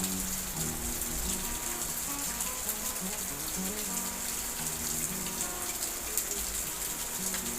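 Steady rain, a dense high hiss with faint scattered drops, under soft background music of slow sustained notes.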